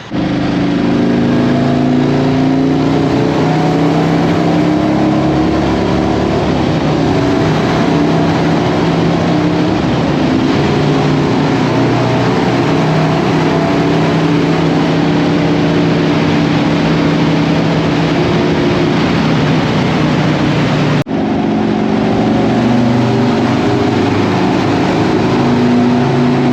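Harley-Davidson V-twin motorcycle riding at a steady speed: the engine running under load with a wide rush of wind and road noise. The sound cuts briefly about 21 seconds in, then resumes.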